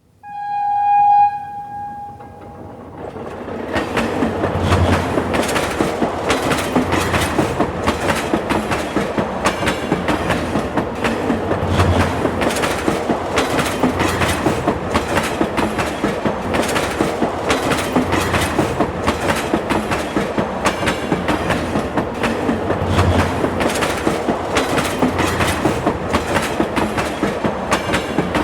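A short train horn blast right at the start, then a train running on rails, its wheels clattering over the rail joints in a steady, even rhythm.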